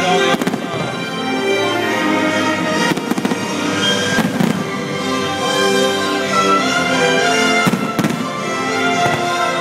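A fireworks display with aerial shells bursting in several sharp bangs, about half a second, three, four and eight seconds in, over loud music playing throughout.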